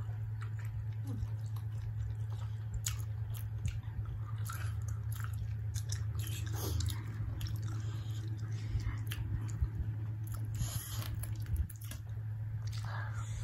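Close-miked chewing of a mouthful of spicy instant noodles: repeated wet mouth clicks and smacks, irregular throughout, over a steady low hum.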